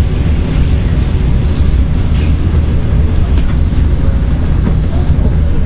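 Seoul Metro 1000 series resistor-controlled electric train running, heard from inside the car: a steady low rumble of wheels and running gear.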